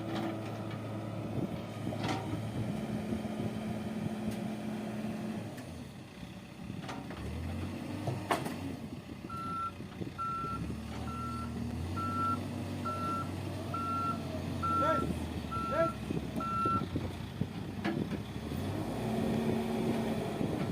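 A heavy construction machine's diesel engine running, its pitch shifting a few times, while its reversing alarm sounds a series of about ten evenly spaced single-tone beeps through the middle of the stretch. A few sharp knocks are heard along the way.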